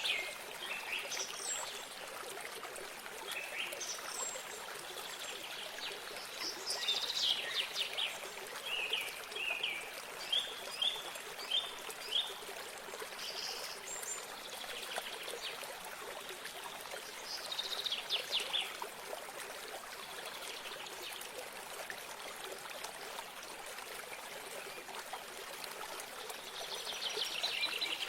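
Several songbirds chirping and trilling in short, scattered phrases over the steady trickle of running water.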